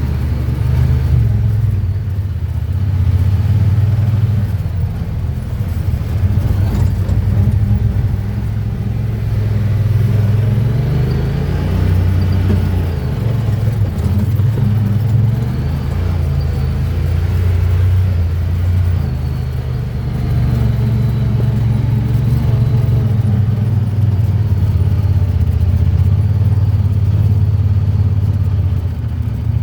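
Honda Pioneer 1000-5 side-by-side's parallel-twin engine running at low revs while driving on an off-road trail, its pitch rising and falling every few seconds with the throttle.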